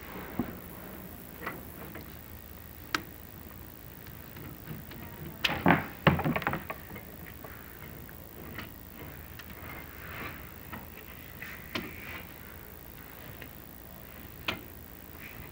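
Chimney inspection camera knocking and scraping against clay flue tiles as it is lowered down the flue: scattered clicks and knocks, with a louder cluster of knocks a little before the middle.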